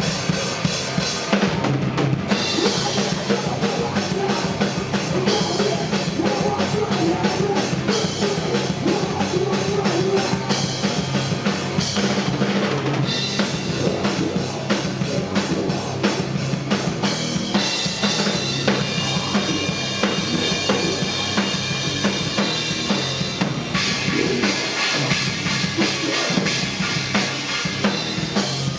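Heavy rock band playing live, an instrumental passage in which the drum kit leads with rapid bass drum and snare hits over the full band.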